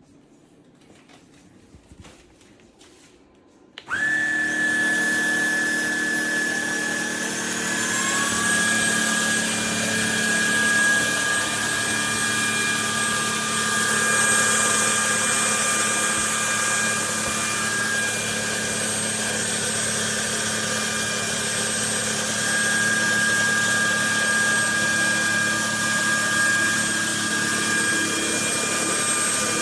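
Trucozie cordless stick vacuum cleaner switched on about four seconds in, after a few faint handling clicks. Its motor runs steadily with a high whine, part of which climbs in pitch over the next few seconds and then holds.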